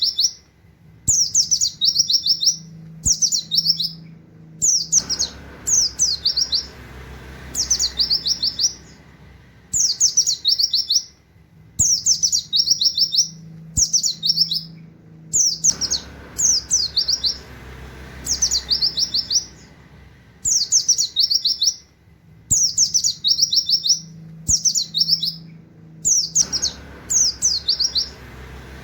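White-eye (pleci) singing in short, repeated bursts of rapid, high, falling 'wit wit' notes in the style of a canary, one burst about every second and a half to two seconds.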